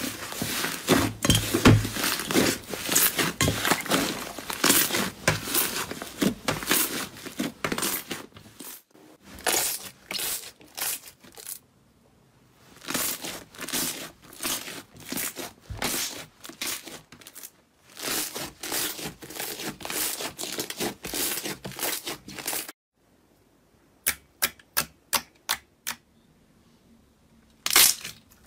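Slime being squeezed and pressed by hand, with dense crackling and popping clicks. It comes as several short clips that change abruptly, and near the end there are about seven separate sharp pops.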